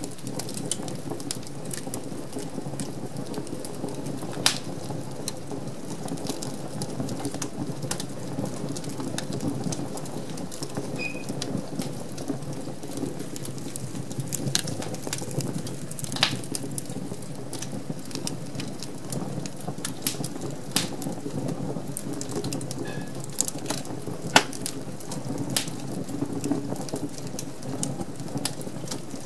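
Wood fire crackling in a fireplace: a steady low rumble of flame with scattered sharp pops and snaps throughout, two of them noticeably louder.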